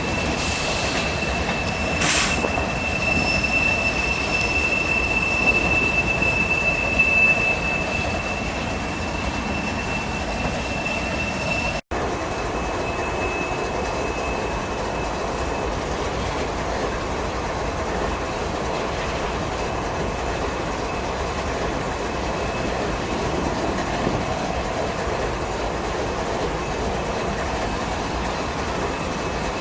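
Train rolling past, the steady rumble of its wheels on the rails with a high, steady wheel squeal over it; the squeal fades after a brief dropout about twelve seconds in while the rolling goes on.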